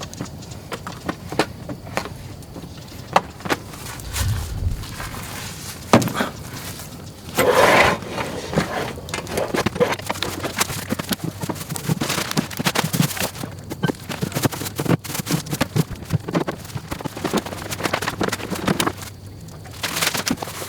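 Irregular clicks, knocks and scrapes, with a louder rustling burst about seven and a half seconds in and another near the end.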